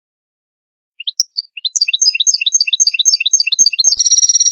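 European goldfinch song: after about a second of silence, a rapid series of quick rising chirps, about four a second, running into a buzzy trill near the end.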